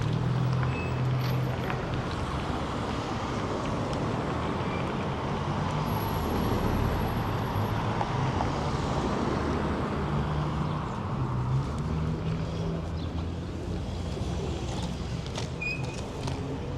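Steady city street traffic: cars and buses running past, with a low engine hum that shifts in pitch.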